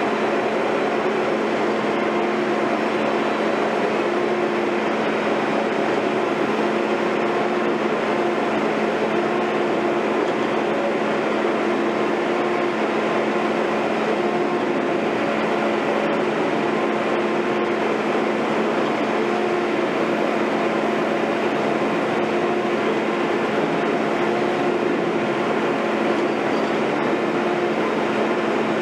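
Heavy construction machinery running steadily at a constant engine speed: an even mechanical noise with a steady hum and no changes in load.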